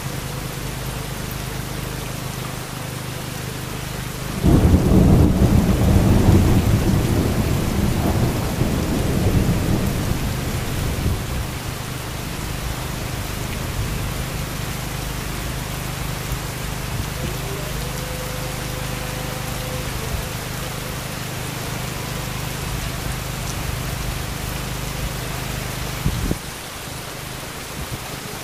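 Heavy rain falling steadily in a thunderstorm. A loud thunderclap breaks about four seconds in, and its rumble rolls on and fades away over the next several seconds.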